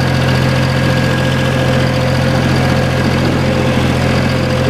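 John Deere 850 tractor's 22-horsepower liquid-cooled Yanmar diesel engine running at a steady speed while the tractor is driven in first gear up a hill.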